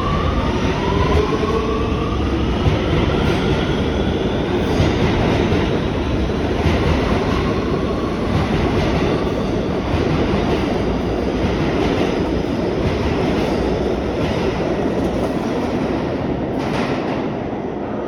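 R211 subway train departing: its propulsion motors whine upward in pitch over the first couple of seconds, then the cars roll by with a steady heavy rumble and repeated clacks of wheels over rail joints, easing slightly near the end.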